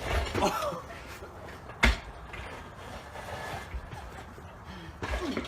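A single sharp knock about two seconds in, over low background noise.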